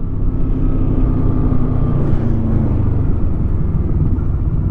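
Motorcycle engine running steadily under load on a steep climb, with wind rushing past the microphone.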